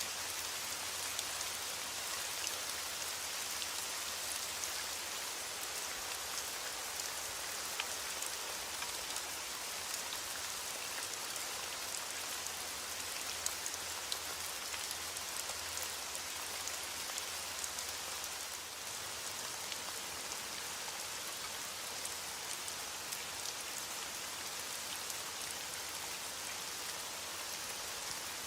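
Steady rain falling: a dense, even hiss with many scattered sharper ticks of individual drops striking a surface.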